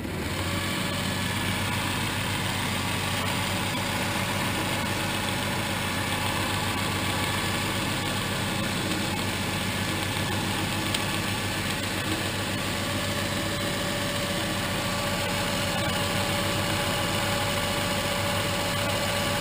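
South Bend 10-inch tool room lathe running with its flat-belt-driven spindle turning, a steady, even machine hum with several steady tones. It starts abruptly right at the beginning.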